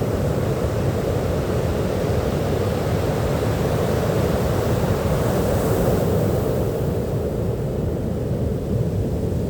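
Sea surf washing onto a beach, a steady low rush that brightens briefly about halfway through as a wave breaks.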